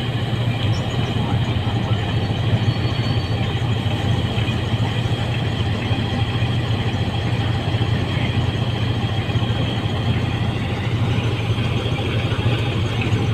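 Combine harvester's diesel engine running steadily at a constant speed with a deep, even hum.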